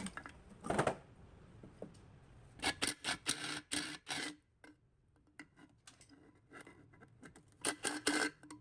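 Handling clatter: quick runs of clicks and knocks, like small hard parts or hand tools being handled, in three clusters: one about a second in, a longer one around three to four seconds in, and one near the end.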